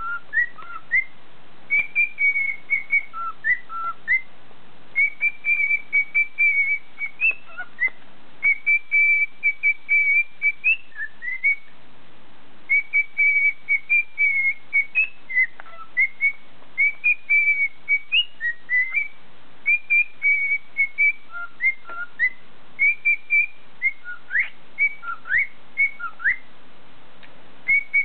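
Pet bird whistling a Christmas tune in clear, pure notes. The notes come in short melodic phrases with brief pauses between them, and a few quick upward-sliding notes near the end.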